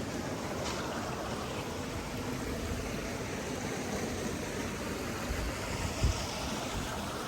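Steady rushing of flowing water, like a stream, with a short low thump about six seconds in.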